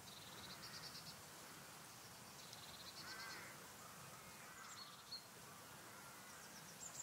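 Near silence with faint, distant bird calls: a few short rapid trills and scattered chirps.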